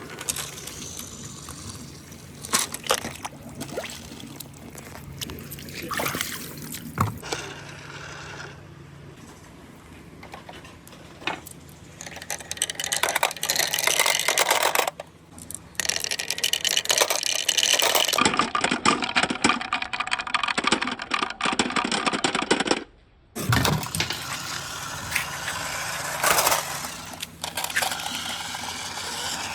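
Marbles rolling and clicking along a marble run with running water, with many sharp clicks over the steady wash of water; the sound cuts abruptly a few times partway through.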